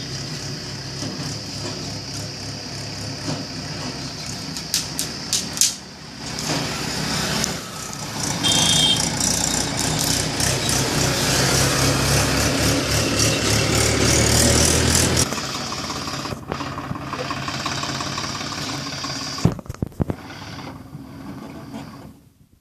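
Swaraj tractor's diesel engine running, working harder and louder for several seconds in the middle before easing off. Metal clanks and rattles come twice, before the engine speeds up and again near the end.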